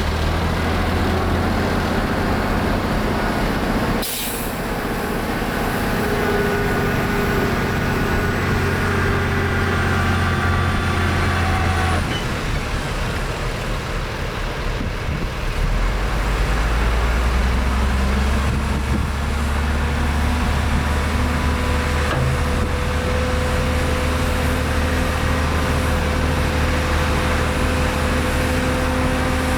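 Heavy diesel earthmoving machinery running steadily. There is a short sharp noise across the whole range about four seconds in. The engine note changes around twelve seconds, then grows deeper and heavier from about fifteen seconds as the engine takes load.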